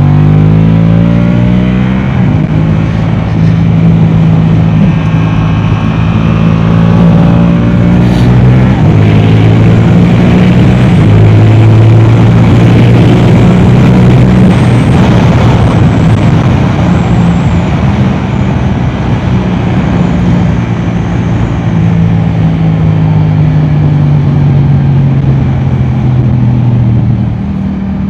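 Yamaha R7's 689 cc parallel-twin engine through an Akrapovic exhaust, ridden hard on track: loud, with its note stepping up and down several times as it pulls and changes gear, easing off near the end.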